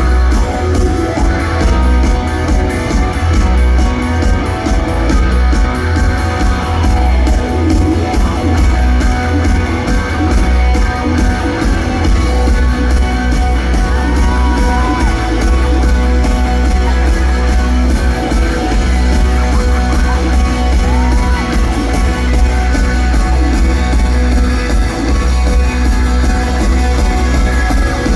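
Rock band playing live, loud and continuous, with guitars over a heavy bass, heard from the audience in a large hall.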